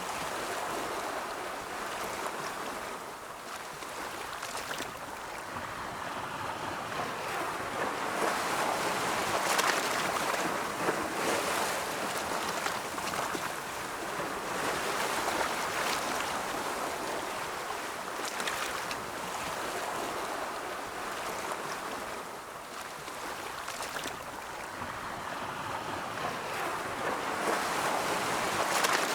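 Ocean waves breaking and washing on a shore, swelling and receding every several seconds, with a fizzing hiss as the surf runs up.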